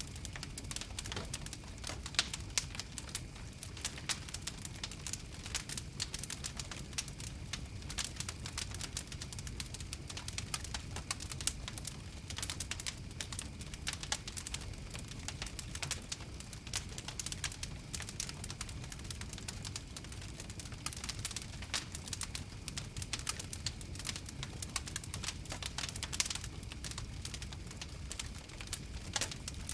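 Campfire crackling: a constant, irregular stream of sharp snaps and pops over a steady low rumble of the flames.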